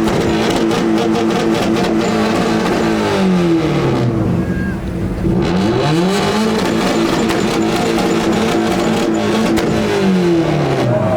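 Subaru WRX (2003) turbocharged flat-four revved up and held at a steady high rpm on a two-step rev limiter with rapid exhaust popping. It drops back down about four seconds in, then revs up again and holds until near the end.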